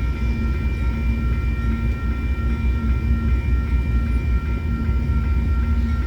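Train passing, a continuous low rumble with a few steady high-pitched tones over it.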